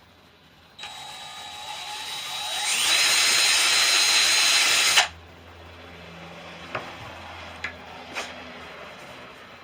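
Power drill boring a hole into a wooden cane near the grip. It starts about a second in, speeds up with a rising whine, runs loud for about two seconds, then stops suddenly; a few light clicks follow.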